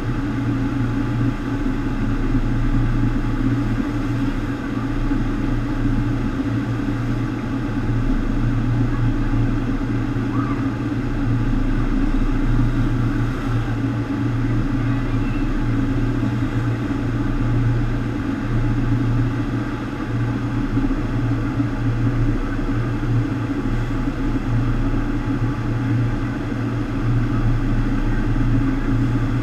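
FlowRider sheet-wave machine running: a steady rush of water pumped over the ride surface, with a constant low drone from the pumps.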